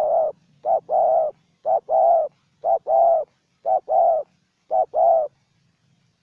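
Spotted dove cooing: paired notes, a short one then a longer one, about once a second, stopping just over five seconds in.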